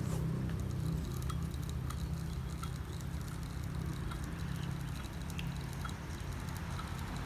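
A steady low rumble with faint, scattered light ticks over it.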